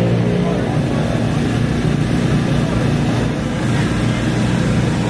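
Off-road race vehicle engine running low and steady, a dense rumble with no clear rise in revs.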